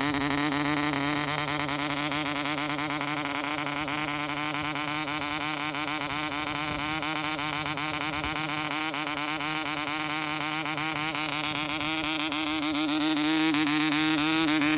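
A 1954 Allbon Dart Mk. 2 0.55 cc model diesel engine running flat out with a steady, high buzzing note, on only its third start from new. It gets a little louder about twelve seconds in.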